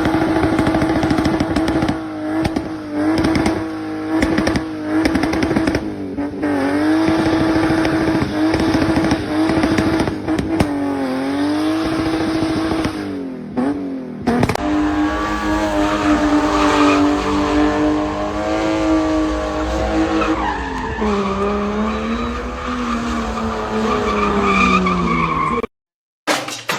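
BMW E30 engine held at high revs while drifting, with tyre squeal. The revs dip briefly and climb back several times, then sink slowly near the end before the sound cuts off suddenly.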